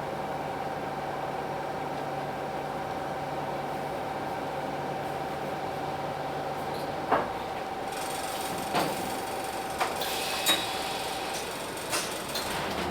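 Hino Blue Ribbon City bus's P11C diesel idling with a steady hum. From about seven seconds in come a handful of sharp clicks, and a hiss of air joins about a second later.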